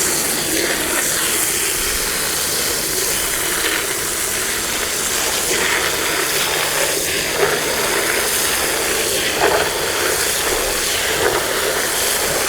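Steady hiss of water spraying under pressure onto a car during a wash.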